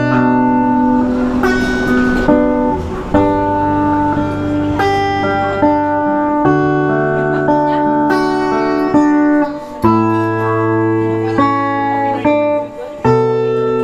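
Guitar music: strummed chords held for a second or two each, then changing, with no singing.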